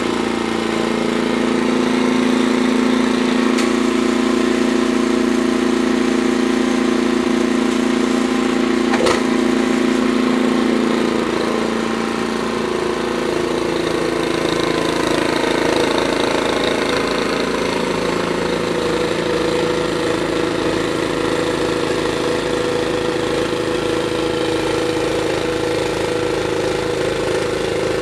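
An engine running steadily, its pitch shifting and settling lower about twelve seconds in.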